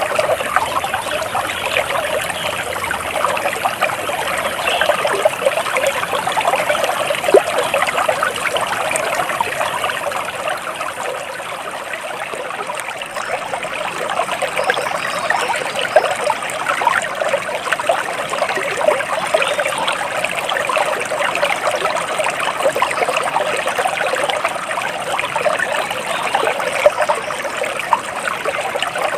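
Water trickling steadily in a small stream, a dense mix of small splashes.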